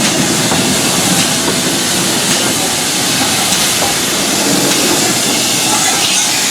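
Steam locomotive at a station, giving off a loud, steady hiss of escaping steam.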